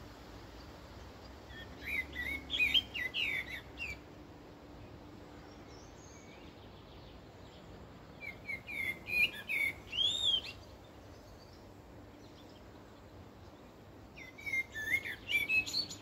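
A songbird singing three phrases of quick, varied whistled notes, each about two seconds long and several seconds apart, over faint steady background noise.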